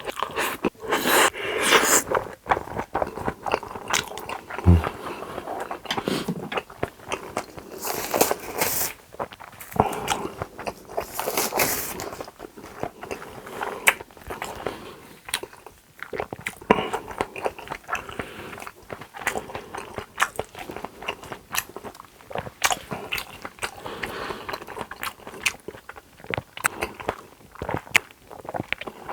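Close-miked eating: a person biting and chewing food, with frequent crunches and many small mouth clicks, a few louder stretches about a second, eight seconds and eleven seconds in.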